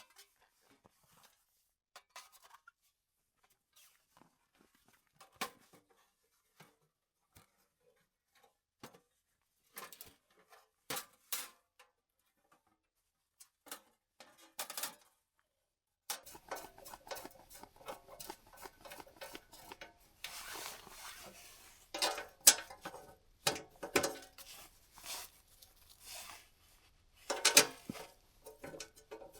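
Small clinks, taps and rustles of hands handling gear, sparse at first and then busier from about halfway through over a faint steady low hum.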